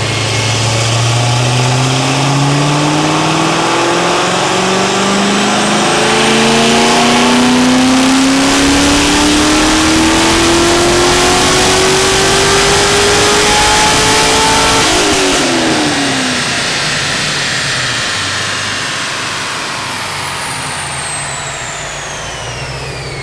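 The LS7 7.0-litre V8 of a 2013 Corvette 427 convertible, fitted with ported heads and 2-inch headers and no cam, making a wide-open-throttle pull on a chassis dyno: the engine's pitch climbs steadily for about fifteen seconds. Then the throttle closes, the engine note drops away, and the car coasts down on the rollers with a falling whine.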